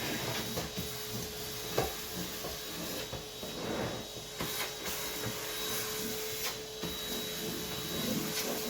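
Vacuum cleaner running steadily with a constant motor whine, with irregular knocks and rubbing as it is worked over the floor.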